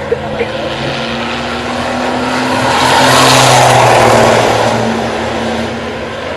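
A racing vehicle's engine passing by, growing louder to its peak about three to four seconds in, dropping slightly in pitch as it goes by, then fading.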